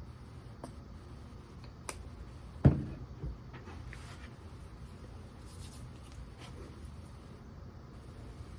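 Light clicks and rustles of a squeeze bottle of yellow mustard being handled at a table, with one solid knock a little under three seconds in and a smaller one just after.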